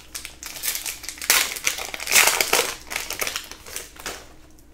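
Crinkling and crumpling of a trading-card pack wrapper being handled, in a dense crackly run that is loudest a little past halfway and thins out near the end.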